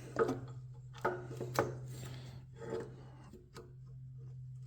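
Cables and wiring being pushed around in a car's engine bay: rubbing and scraping with a few light knocks, about four in the first three seconds, over a steady low hum.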